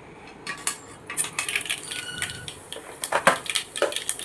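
Mustard seeds crackling and popping in hot oil in a small pan. The crackling starts about half a second in and grows denser.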